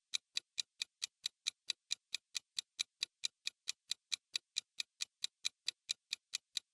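Quiz countdown-timer sound effect: a steady, clock-like ticking at about four to five ticks a second while the answer time runs.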